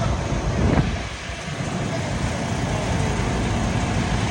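Steady outdoor background noise with a low rumble, broken by a brief knock under a second in.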